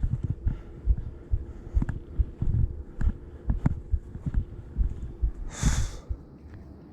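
Irregular low thuds and scuffs of footsteps and handling while climbing down a steep hill trail, with one short hissing burst, like a sharp breath out, about five and a half seconds in.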